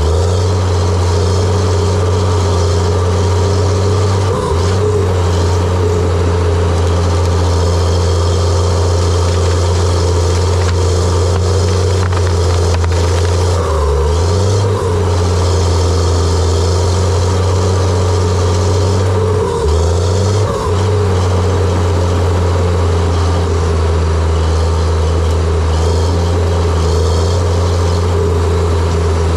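John Deere 700J-II crawler dozer's diesel engine running steadily under work, its pitch sagging briefly twice as it takes load and then picking back up.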